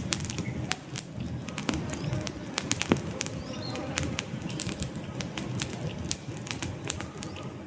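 Wood fire crackling in a fireplace: dense, irregular sharp pops and snaps over a low, steady rumble of the burning logs.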